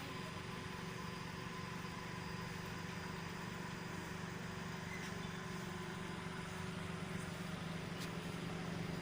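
Steady low mechanical hum, like an engine idling, with a faint steady high-pitched tone over it.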